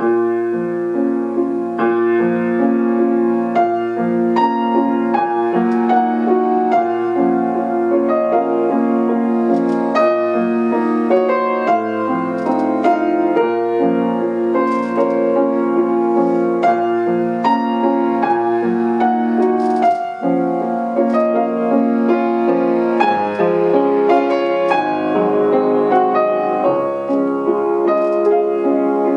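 Solo piano playing a classical piece, full chords under a melody, starting abruptly out of near silence.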